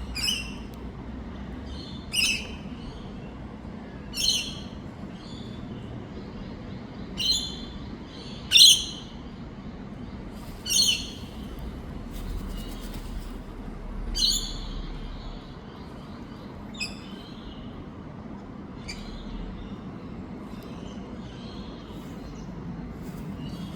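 Wild parrots giving short, sharp chirping calls, one every second or two, fewer and fainter in the second half.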